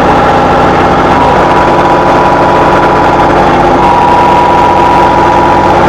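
Vehicle engine running steadily, with a steady high-pitched whine over it.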